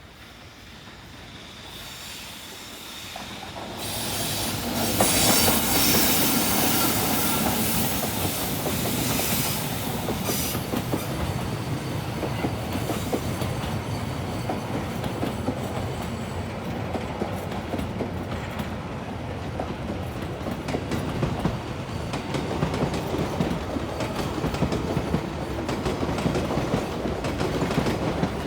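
EF65 electric locomotive hauling a single freight wagon through a station, its wheels rolling on the rails. The sound builds as it approaches, reaches full loudness about four seconds in, and stays loud as the train passes.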